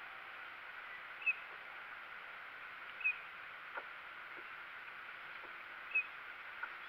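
Steady outdoor hiss of moving water and breeze with three short, high bird chirps spaced a couple of seconds apart, and a few faint taps.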